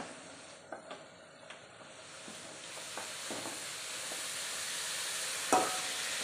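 Grated carrot sizzling in a metal kadai as it is stirred with a spoon, the salt water just poured in frying off. The hiss builds over the first couple of seconds and then holds steady. There are a few light scrapes and one sharper clack of the spoon on the pan about five and a half seconds in.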